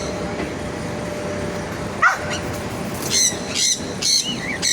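Dog barking: one sharp bark about two seconds in, then a quick run of short barks and yips near the end, over a steady street background hum.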